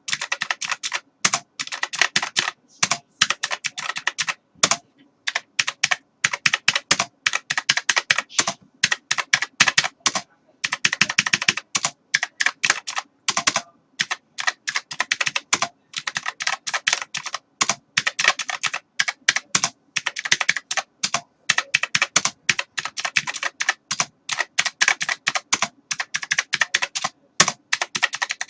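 Computer keyboard being typed on: rapid runs of key clicks in bursts, separated by brief pauses.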